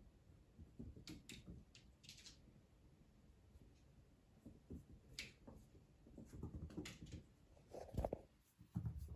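Faint scattered clicks and soft low thumps, the loudest thump about eight seconds in.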